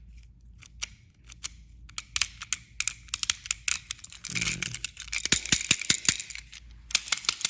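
Plastic clicks and rattles from a battery-powered toy train engine being handled while a battery is fitted into it. Sparse at first, then a dense run of small clicks and scrapes.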